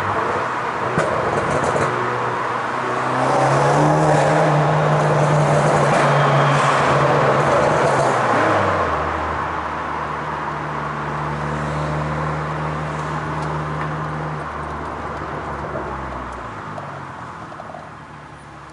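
Fiat Grande Punto T-Jet's 1.4 turbo four-cylinder petrol engine running under way with a steady note. It grows louder about three seconds in, drops to a lower, deeper note about nine seconds in, and fades away near the end.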